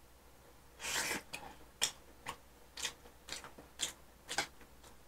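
A person chewing a mouthful of food close to the microphone, a short chewing noise about twice a second, starting about a second in.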